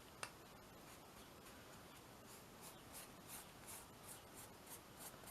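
Faint, rhythmic brush strokes on the canvas, about three a second, starting a couple of seconds in: a brush working matte medium onto the surface. A single light click comes just after the start.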